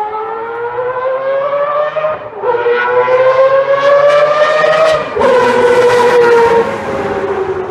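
Mazda 787B's four-rotor R26B rotary engine screaming at high revs, its pitch climbing through the gears with upshifts about two and five seconds in, then slowly dropping.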